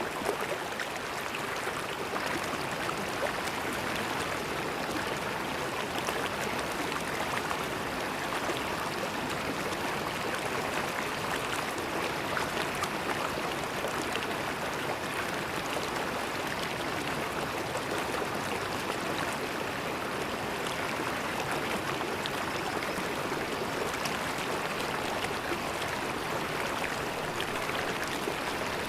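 River water flowing over rocks: a steady rush and gurgle.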